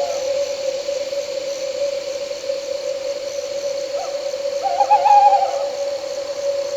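Owl calling once in a short wavering hoot about five seconds in, with a brief note just before it, over a steady drone of night insects.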